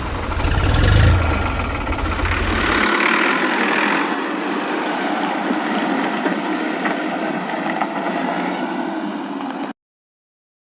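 A small motor running steadily, with a steady rushing sound, then cutting off abruptly near the end. Bass-heavy background music plays over it for the first few seconds.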